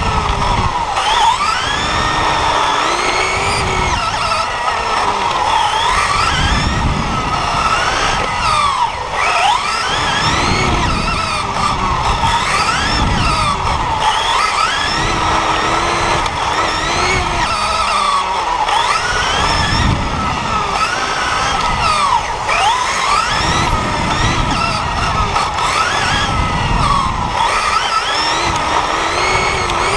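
Several radio-controlled cars' motors whining, their pitch rising and falling over and over as the throttle is worked, with low rumbling surges underneath.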